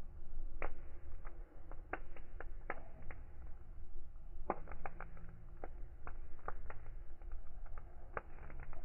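Wood fire crackling, with sharp irregular pops and snaps, some in quick clusters, over a steady low rumble of the flames.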